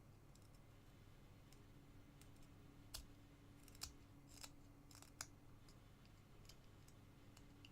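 Faint, irregular snicks of a Flexcut carving knife taking small paring cuts in basswood, a few louder than the rest, over a low steady hum.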